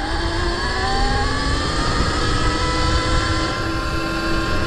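Electric dirt bike motor whining as the bike accelerates toward top speed. The whine rises in pitch for about three seconds, then levels off. Wind rumbles on the microphone underneath.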